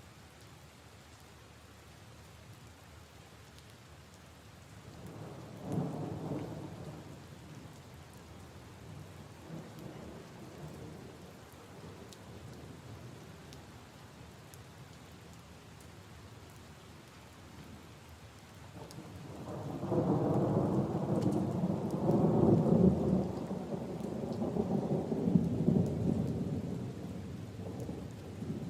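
Steady rain falling on puddles and leaves, with thunder rumbling low twice: briefly about five seconds in, then longer and louder from about two-thirds of the way through, fading near the end.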